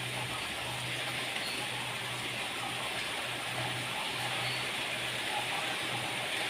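Heavy rain falling, a steady dense hiss with no let-up, over a faint low hum that comes and goes.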